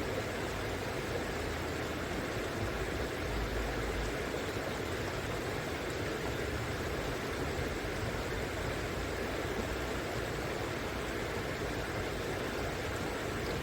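River water rushing steadily over its bed, a continuous even rush with no breaks, and a brief low rumble about three seconds in.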